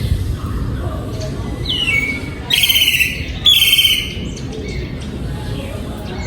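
Oriental magpie-robin singing: a falling whistled note, then two loud, harsh scratchy notes about a second apart.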